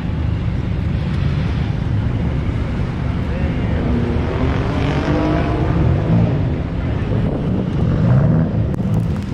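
Car engines running, with one engine's pitch falling and then rising again around the middle, over a steady low rumble.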